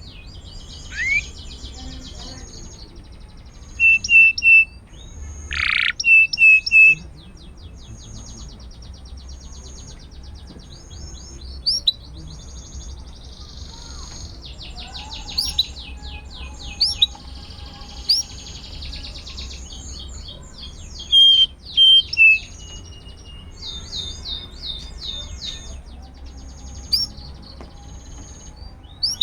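A canary singing a long, continuous song of fast trills and rolls mixed with repeated chirps. Short bursts of loud, sharp repeated notes stand out about four seconds in, around six to seven seconds, and again around twenty-one seconds.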